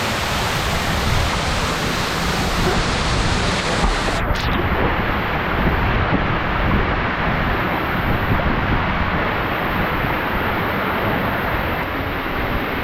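Waterfall rushing, a steady loud roar of falling water. About four seconds in, the highest part of the hiss drops away.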